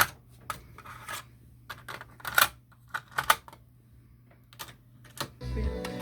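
Sony TC-WR11ES dual cassette deck's transport mechanism clicking and clunking: about a dozen sharp mechanical clicks, a few louder ones around two and three seconds in, over a faint steady low hum, with tape music starting again near the end.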